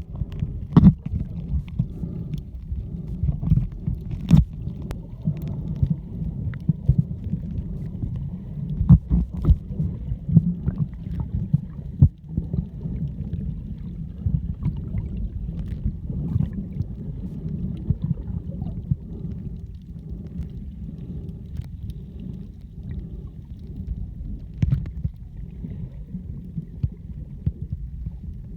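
A boat out at sea: a steady low rumble, broken by irregular knocks and thumps throughout.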